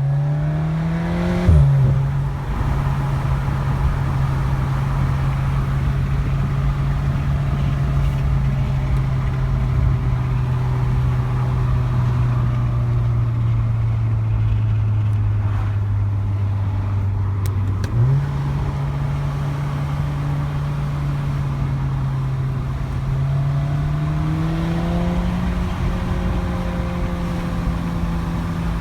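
2016 Volkswagen Golf R's turbocharged 2.0-litre four-cylinder with catted downpipe, muffler delete and resonator delete, driven through manual gear changes. It revs up and shifts up about a second and a half in, with a short sharp crack at the shift. It then drones steadily as the revs slowly sag, jumps in pitch with a downshift about eighteen seconds in, climbs again, and shifts once more near the end.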